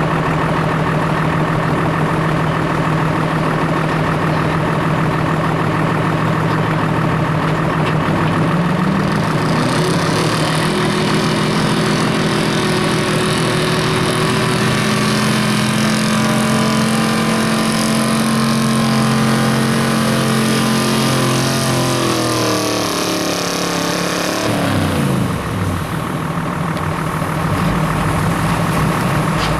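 Pulling truck's engine idling, then revving up about nine seconds in and held at high revs with a hiss over it for over ten seconds. It drops back to idle about twenty-five seconds in.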